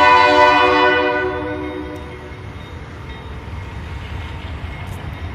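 Locomotive air horn sounding a chord of several notes and fading out over the first two seconds, leaving the low rumble of the passing train.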